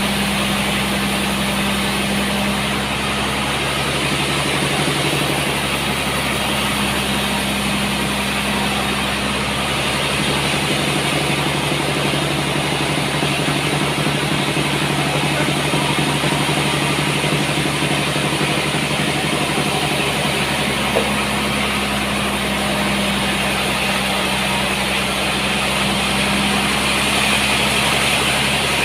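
Sawmill machinery running steadily, a constant low hum over a noisy whir, with one small click about two-thirds of the way through.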